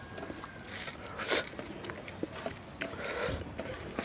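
Close-up eating sounds of a person chewing a mouthful of rice and dal: wet smacks and small clicks, with a louder burst about a second in and another around three seconds in.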